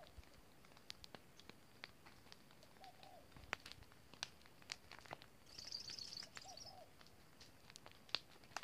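Near silence, with faint bird calls: a soft two-note call about every three seconds and a short high twitter about six seconds in, over scattered light clicks.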